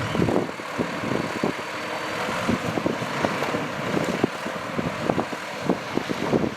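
Heavy earthmoving machinery working: a steady engine rumble under a run of irregular clanks and knocks, a few each second.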